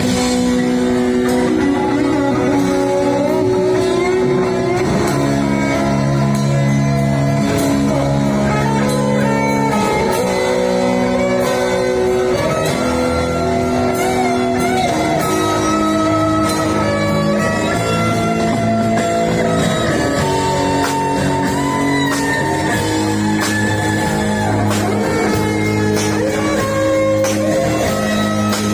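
Live band playing an instrumental passage: a guitar melody over bass and drums, steady and loud.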